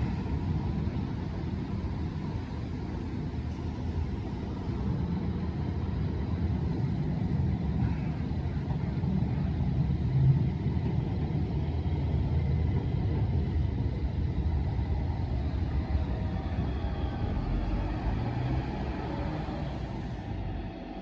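Manyosen tram running along the line: a steady low rumble, with a brief louder knock about ten seconds in.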